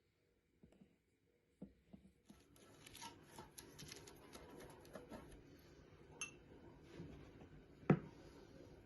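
Quiet household handling sounds: scattered small clicks and rustles over a low background hiss that comes in about two seconds in, with one sharper knock near the end.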